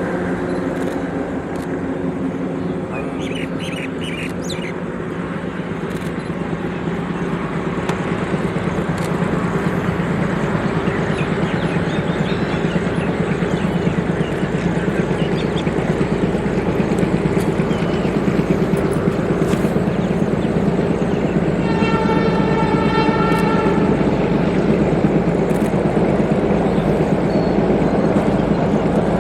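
Metre gauge diesel train running, its engine growing louder as it approaches over the first ten seconds or so and then holding steady. About three-quarters of the way through, the locomotive sounds its horn once for about two seconds.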